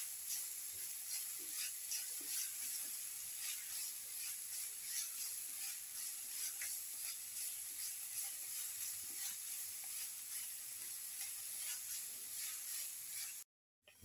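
Sliced shallots sizzling in hot oil in a frying pan, a steady hiss with fine crackles as they soften and start to colour. It stops abruptly near the end.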